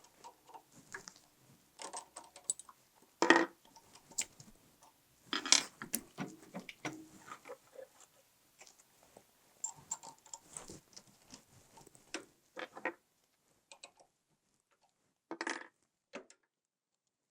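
Small metal tools and parts being handled and set down on a workbench: scattered clinks and knocks, the loudest about three and five and a half seconds in, fewer after about thirteen seconds.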